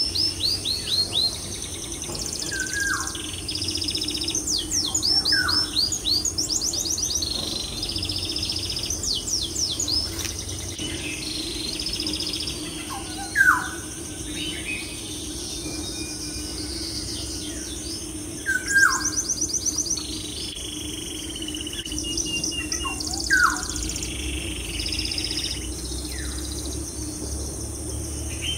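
Songbirds chirping in quick high trills, with a loud falling whistle every few seconds, over a steady low hum.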